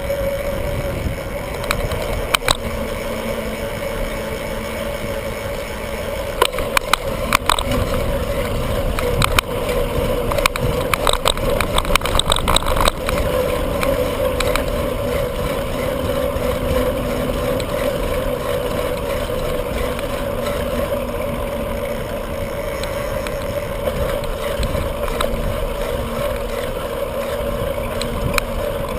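Bicycle being ridden: steady rolling and wind noise, with a run of sharp rattling clicks between about six and thirteen seconds in.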